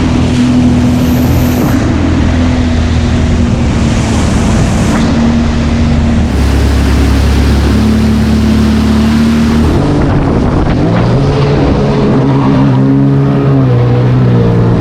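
Sea-Doo personal watercraft engine running under way, a steady drone that begins shifting up and down in pitch about ten seconds in as the throttle changes. Wind and water noise are mixed in on the microphone.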